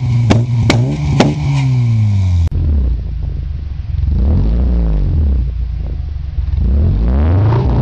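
Car engines heard through their exhausts. First an engine note sinks with a few sharp cracks. Then, after a cut about two and a half seconds in, another car's engine is revved up and let fall back, twice.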